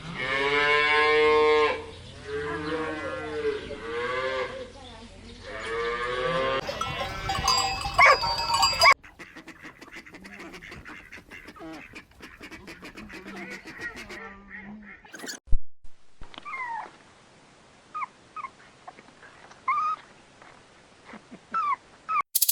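Cattle mooing in several long, drawn-out calls over the first six seconds or so. After a cut there is a quieter stretch of irregular clicking, then a string of short, high chirps.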